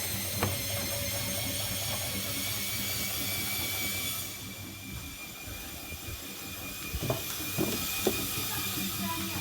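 Bosch Series 2 washing machine running with bottles in the drum: a steady high motor whine over hiss and a low hum. The whine changes about four seconds in, and a few short knocks follow near the end.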